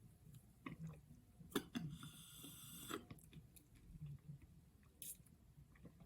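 Close-miked chewing of seafood (crab legs and shrimp in butter sauce), faint, with a few sharp clicks and a noisier sound lasting about a second, about two seconds in.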